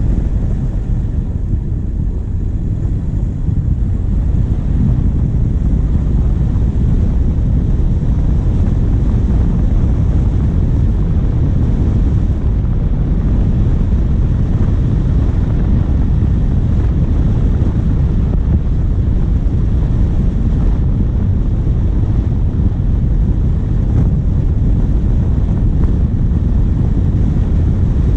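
Steady low rumble of wind buffeting a bonnet-mounted action camera's microphone, mixed with a diesel vehicle's engine and tyres driving on a forest track.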